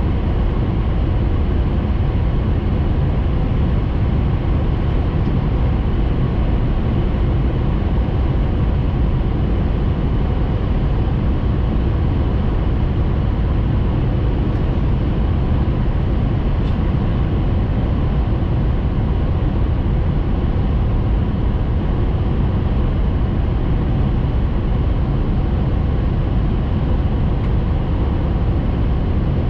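Steady running noise inside the cabin of a Hayabusa Shinkansen train travelling at speed, a deep even rumble with no breaks.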